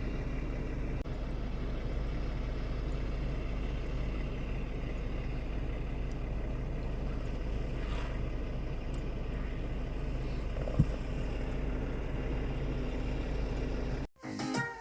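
Steady low rumble of an idling truck engine, with one sharp knock about eleven seconds in. Electric piano music cuts in near the end.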